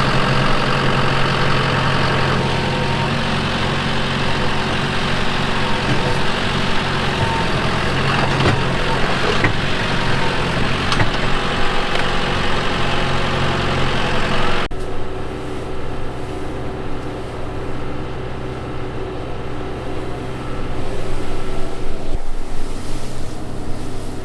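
Farm machinery engine running steadily. About two-thirds of the way through, the sound cuts abruptly to a duller, deeper engine sound.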